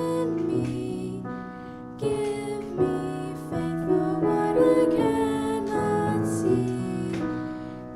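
Slow instrumental worship music led by piano, with held chords and a few new notes struck along the way: the introduction to a congregational hymn.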